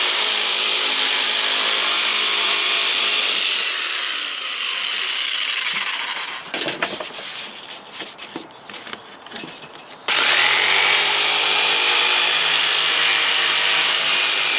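Handheld power tool running on wood, its motor slowing and stopping about four to six seconds in. A few seconds of scattered knocks follow, then the tool starts again suddenly about ten seconds in and runs steadily.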